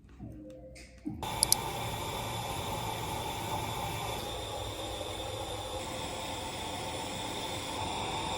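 Steady hiss with a faint hum, starting abruptly about a second in, with two sharp clicks just after it starts.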